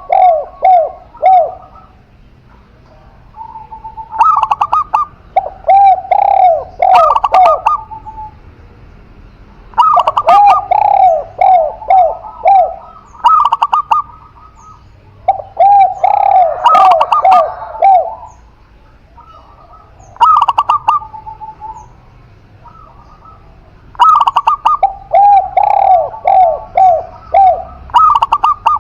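Spotted dove and zebra dove cooing in bouts every few seconds. Each bout is a quick rhythmic run of short repeated coo notes.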